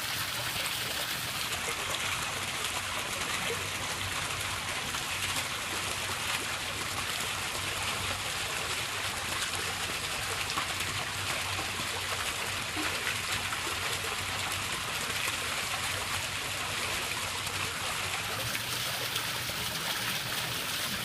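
Running water of a stream: a steady, even rush of flowing water.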